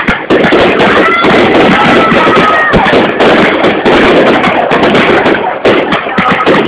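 Fireworks going off in a dense barrage of continuous crackling and popping, with a couple of whistling tones from about a second in to nearly three seconds.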